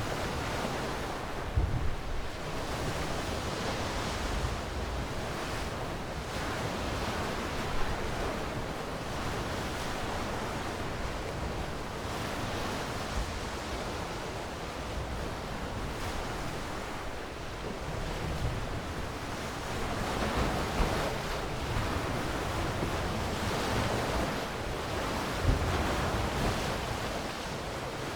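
Ocean surf: waves washing in and drawing back as a continuous rush that slowly swells and eases. A few brief low thumps stand out, near the start, around eight seconds in and near the end.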